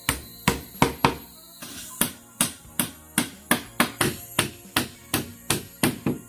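Repeated sharp blows of a hand tool striking bamboo. There are a few uneven strikes at first, then a steady rhythm of about three blows a second from about two seconds in.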